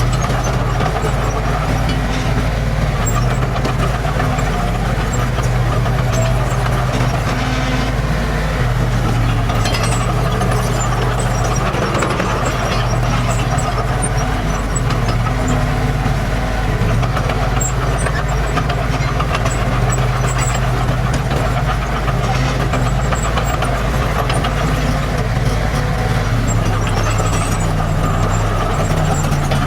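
Diesel engine of heavy earthmoving machinery running steadily at a constant low pitch.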